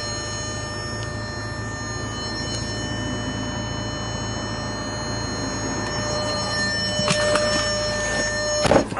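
Bentley Continental GT's 6.0-litre twin-turbo W12 idling: a steady low hum with a faint thin whine over it. A few sharp clicks and knocks come near the end.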